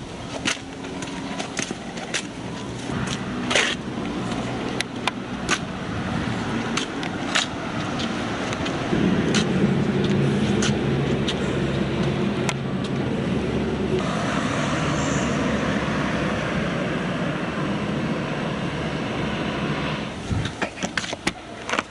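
An engine running with a steady drone that grows louder about nine seconds in and cuts off near the end, with sharp clicks over the first half.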